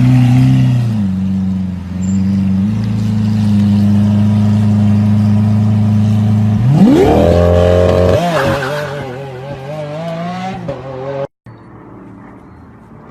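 Car engine with a loud exhaust running steadily at a low pitch, then revving up fast about seven seconds in and holding high with a wavering pitch. Near the end the sound cuts off abruptly to a much quieter engine hum.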